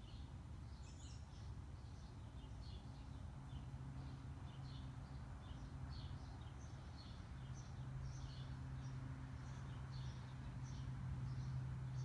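Faint outdoor ambience: a bird chirping over and over, short high chirps about once or twice a second, over a steady low hum that grows a little louder about halfway through.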